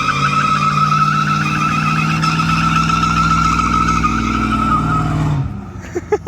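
Car doing a burnout: one tyre spinning in place with a loud, steady tyre squeal over the engine held at high revs, both cutting off suddenly about five seconds in.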